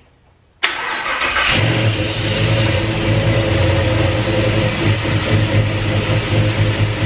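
Twin-turbo aluminum-block 5.3 LS V8 cranking for about a second, catching and then running steadily at idle with a wavering note: its first start after the swap.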